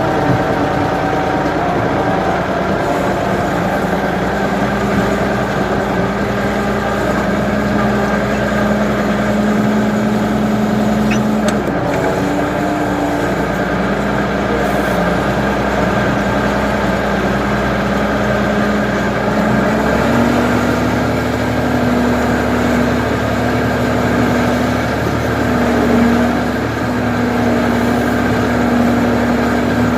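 Ford 550 backhoe engine running steadily under work. Its pitch steps up slightly about twenty seconds in as the engine speed rises.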